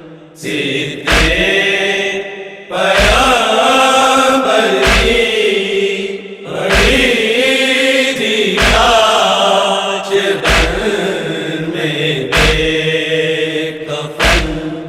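Men's voices chanting a noha lament, drawn-out lines that rise and fall in pitch, with a deep thump about every two seconds keeping a slow beat.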